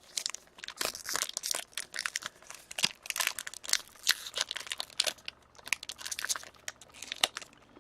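Trading card pack wrapper being torn open and crinkled by hand: a dense, irregular run of crackles and rustles.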